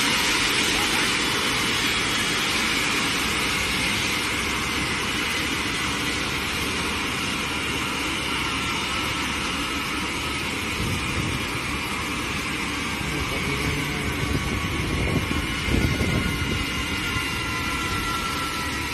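Jet airliner engines running with a steady rush and a high whine that slowly falls in pitch, with some low rumbling a little past the middle.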